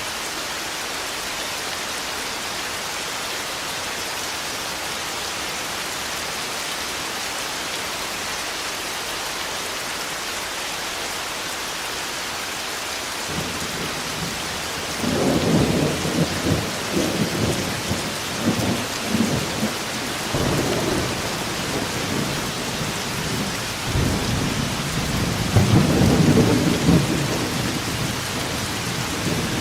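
Steady heavy rain throughout, with rolling thunder rumbling in about halfway through and swelling again near the end.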